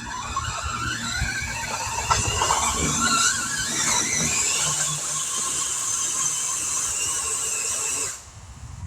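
Electric motor and drivetrain of a radio-controlled pulling truck whining hard under load as it drags a heavily weighted pulling sled, the pitch wavering and rising as it gains speed. It cuts off suddenly about eight seconds in.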